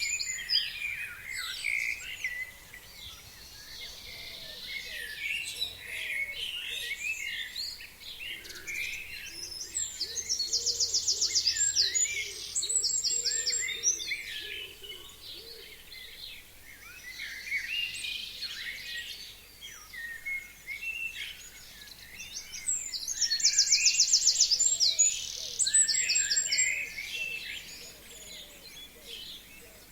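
A chorus of forest songbirds singing and chirping. Twice, a third of the way in and again about three-quarters through, one bird gives a loud song of rapid repeated notes ending in a flourish.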